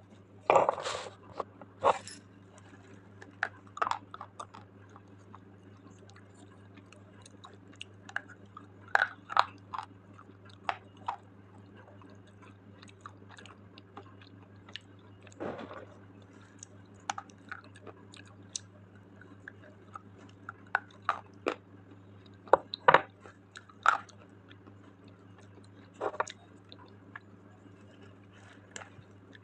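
Slate pencils being bitten and chewed close to the microphone: irregular sharp crunches and cracks, a few of them heavier bites, over a steady low hum.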